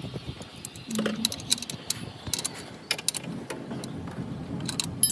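Sharp, irregular metallic clicks and ticks, a dozen or so, over a steady low hum.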